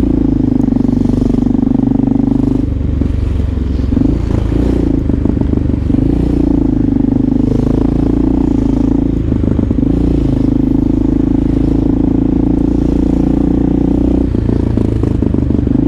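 Motorcycle engine running while riding, heard from the bike, with a steady engine note that changes pitch briefly a few times.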